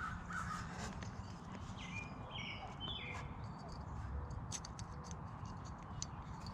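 Light scattered clicks and taps of small carburetor parts being handled while the float pin is fitted, with a few short bird chirps about two to three and a half seconds in.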